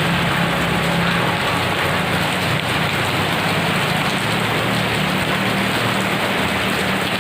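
Heavy rain pouring steadily, an even hiss of drops, with a low steady rumble underneath.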